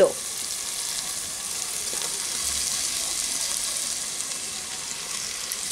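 Oil sizzling steadily in a pan of frying onion, tomato and spices as grated radish is tipped in from a glass bowl.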